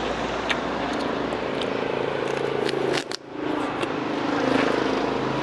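Chewing and crunching on a broth-dipped fried dough stick (quẩy), a few short crisp clicks, over a steady hum of street traffic.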